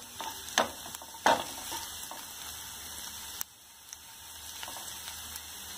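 Chopped ginger and garlic sizzling steadily in a little hot oil in a nonstick pan. A wooden spatula knocks against the pan twice in the first second and a half. The sizzle drops suddenly a little past halfway and then builds back.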